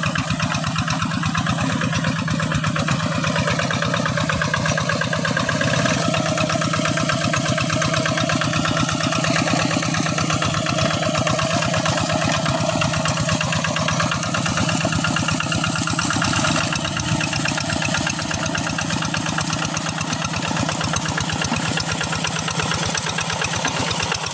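Rice-field tractor's engine running steadily with an even, fast pulsing beat.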